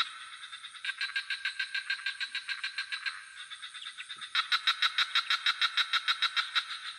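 Night swamp chorus: frogs calling in rapid pulsed trills of about ten pulses a second, in two bouts starting about a second and about four seconds in, over a steady high-pitched insect chirring.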